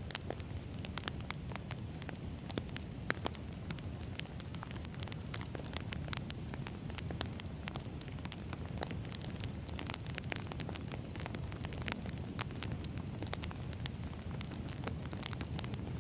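Wood fire burning, with frequent irregular crackles and pops over a steady low rumble of flame.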